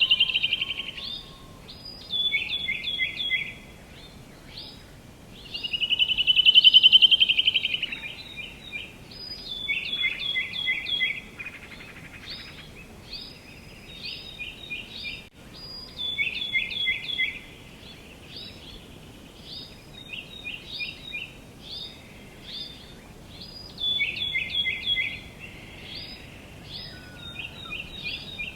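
Songbirds singing and calling: a long trill at the start and another about six seconds in, with repeated series of short, quickly falling chirps throughout, over a faint steady outdoor background.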